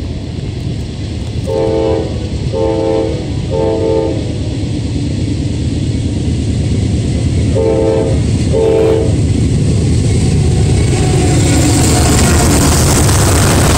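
Diesel freight locomotive sounding its multi-note horn in short blasts, three about two seconds in and two more around eight seconds, as the train approaches. From about ten seconds the engine rumble and wheel-on-rail noise grow loud as the locomotive passes close by.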